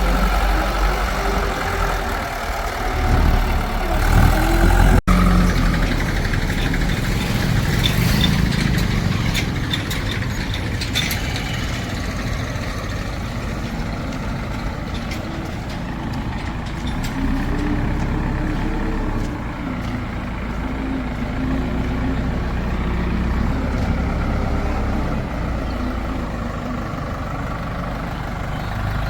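Heavy diesel machinery running steadily, with a cluster of metallic clanks about eight to eleven seconds in.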